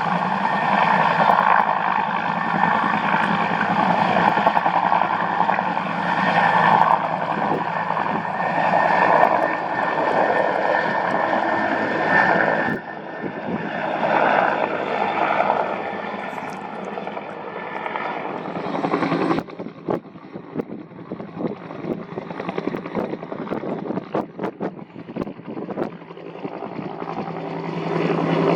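UH-1N Huey helicopter running, a steady turbine-and-rotor drone with a constant whine. It drops off abruptly twice, leaving a quieter, choppy pulsing sound in the later part, then swells louder again near the end.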